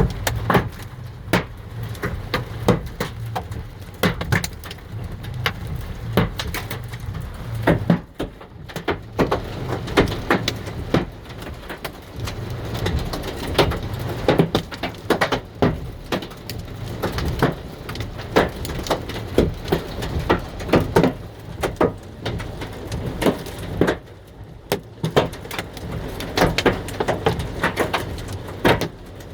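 Hailstones striking hard surfaces in a dense, irregular clatter of sharp knocks, during a sudden downpour.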